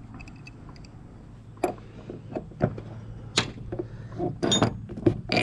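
Wrench clinking and knocking on a mower spindle pulley's nut as it is tightened down: a string of separate sharp metallic taps, more of them near the end.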